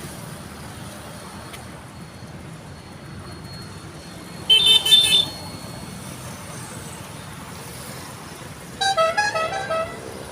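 Vehicle horns honking over steady road traffic noise: one short, high horn blast about four and a half seconds in, and a quick run of toots that jump in pitch near the end.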